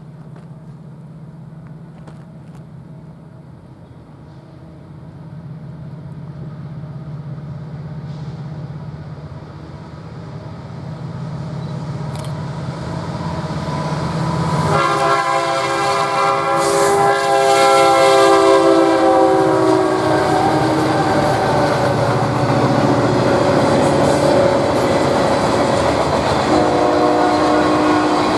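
A diesel train approaching, its engine drone growing steadily louder, then a multi-chime air horn sounding for about five seconds some fifteen seconds in. The train then passes close with loud rushing wheel noise, and the horn sounds again briefly near the end.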